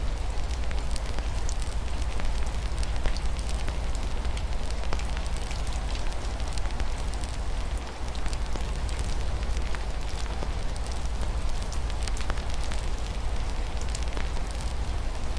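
Fireplace fire crackling, with frequent small sharp pops, over a steady hiss of rain and a low rumble.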